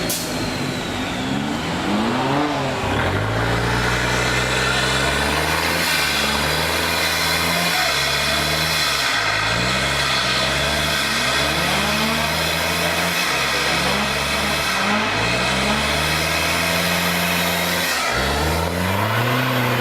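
Off-road 4x4 vehicle engine revving again and again, its pitch rising and falling, with a few brief drops in revs.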